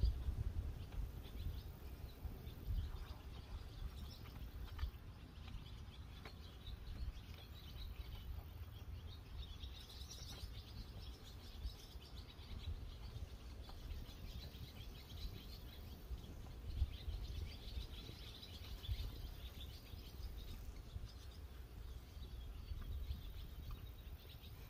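Birds chirping and singing faintly over a low, uneven rumble.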